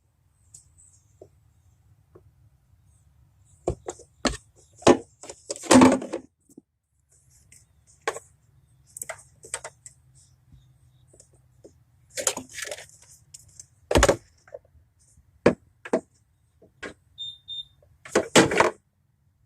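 Scattered knocks, clinks and clatters of hand tools and metal parts being handled, in irregular clusters, over a faint low hum.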